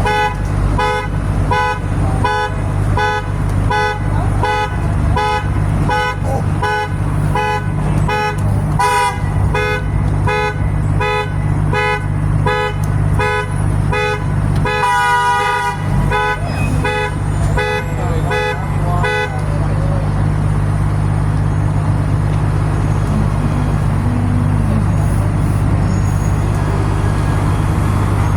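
A vehicle horn honking in quick repeated beeps, about two a second, with one longer blast near the middle, stopping about two-thirds of the way through. A truck engine drones steadily underneath.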